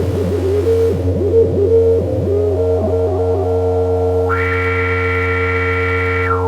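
MFOS Weird Sound Generator, a DIY analog noise synthesizer, droning on steady low tones while a warbling tone swoops up and down over them; the hiss drops out about a second in. About four seconds in a bright, buzzy tone with many overtones cuts in for about two seconds, then falls away near the end. The unit is faultily built, so it behaves erratically.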